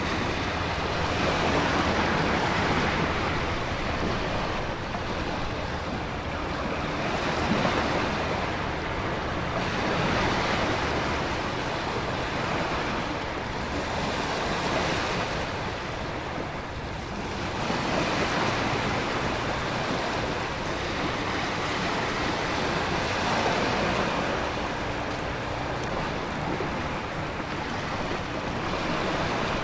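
Storm ambience of heavy surf and wind: a dense, continuous wash of crashing ocean waves and wind-driven rain that swells and eases every few seconds.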